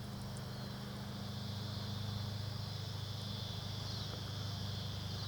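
Chorus of cicadas making a steady, continuous high buzz, with a low engine hum underneath.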